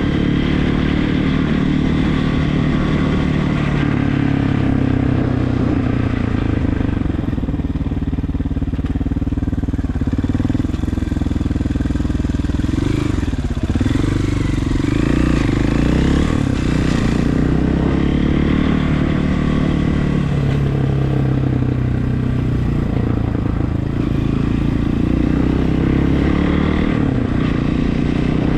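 Regulmoto TE enduro motorcycle engine running while riding, its pitch rising and falling with the throttle about halfway through.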